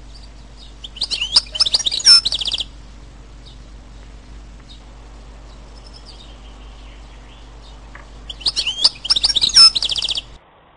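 A songbird singing two loud phrases about seven seconds apart, each a quick run of notes lasting under two seconds, with fainter chirps from other birds in between.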